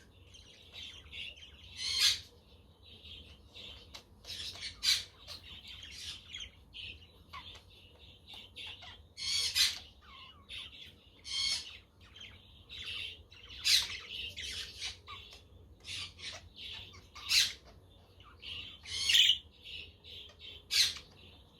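A flock of budgerigars chattering steadily, broken by loud squawks about every two seconds.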